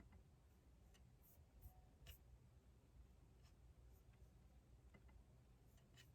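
Faint writing with a pen on paper, in scattered light scratches and taps, over a low, steady room hum.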